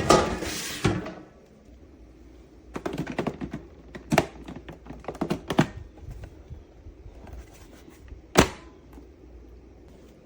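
Knocks and clicks of objects being handled: a loud flurry at the start, a quicker run of about a dozen a few seconds in, and one sharp knock near the end.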